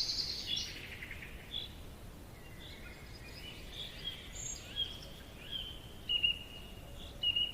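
Forest ambience: several birds chirping and calling in short notes, one after another, over a soft steady background hiss.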